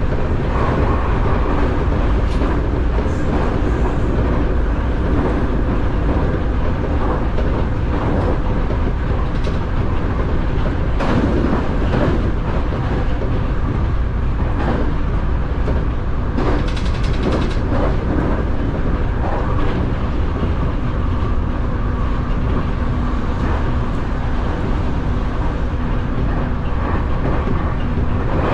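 Running noise of a Nankai electric train heard from inside the front car behind the cab: a steady low rumble from the wheels and motors, with scattered clacks as the wheels cross rail joints and points, bunched more densely about two-thirds of the way through.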